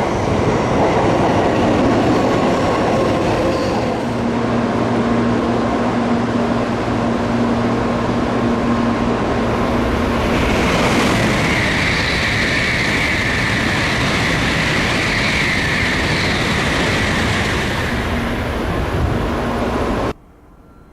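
Tokaido Shinkansen N700A train moving along the platform track: loud continuous rushing and rail noise, with a steady low hum for a few seconds and then a high whine from about halfway until near the end. The sound cuts off abruptly shortly before the end.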